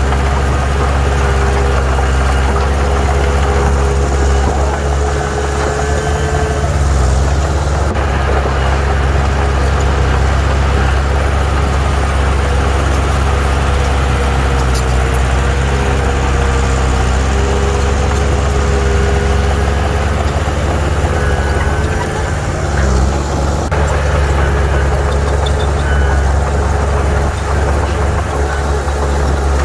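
Heavy diesel earthmoving machinery running steadily, a deep engine hum with a wavering whine above it.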